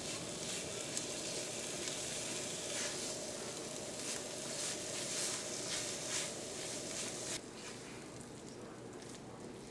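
Coconut, chana dal, sugar and ghee filling sizzling in a stainless steel wok on a medium flame while a spatula stirs and scrapes it round the pan in repeated strokes. The sizzle gets quieter for the last couple of seconds.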